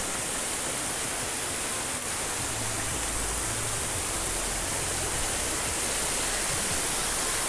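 Waterfall: a steady rush of falling water, with an added low rumble from about two and a half to six seconds in.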